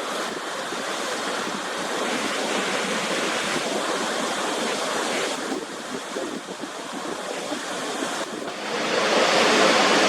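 Waterfall's falling water rushing as a steady, even noise, changing a little in tone at a couple of sudden cuts and getting louder near the end.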